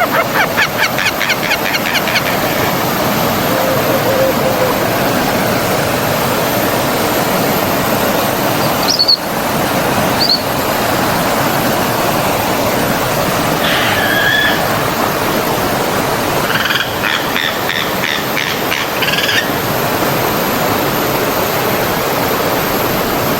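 Steady rushing of a forest stream, with birds calling over it: a quick trill at the start, two short chirps about nine and ten seconds in, and trilled calls around fourteen seconds and again for a couple of seconds past the middle.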